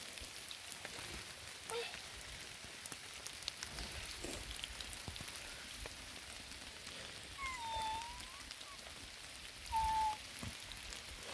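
Steady rain falling, with the close patter of drops striking a surface. Two brief high-pitched calls cut through, one with a dip in pitch near the middle and a shorter, louder one about ten seconds in.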